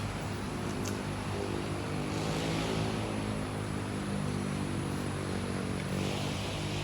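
A steady low drone made of several held tones, with a hiss that swells about two seconds in and again near the end.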